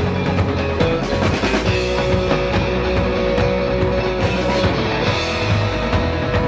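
Live surf-rock instrumental played by a band: electric guitar carrying sustained melody notes over bass and a drum kit keeping a steady beat.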